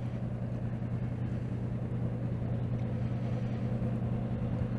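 Steady low mechanical hum with a deep, even drone, growing slightly louder.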